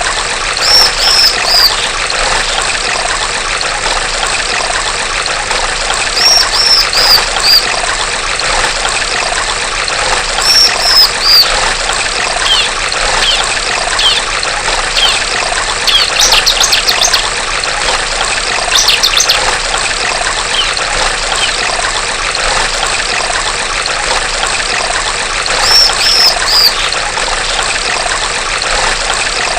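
Steady trickling stream water with a female bar-winged prinia (ciblek) calling over it. Every few seconds it gives a short run of three or four high, falling notes, with scattered single chirps and two quick rattling trills in the middle.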